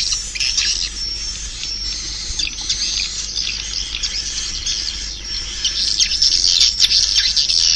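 Swiftlet calls: a dense, continuous twittering of many high, quick chirps. It is a swiftlet sound recording of the kind played in swiftlet houses to draw the birds in, and it grows louder about six seconds in.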